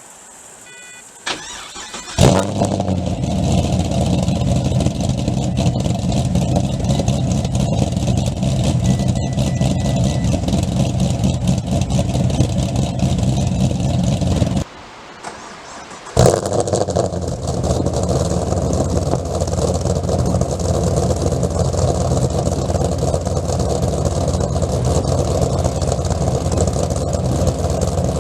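A Pontiac GTO's V8, fitted with Trick Flow cylinder heads and a Borla exhaust, is cranked and fires up with a loud flare about two seconds in, then idles steadily. About halfway through it is shut off for over a second, then restarts with another flare and idles again. A few short beeps come just before the first start.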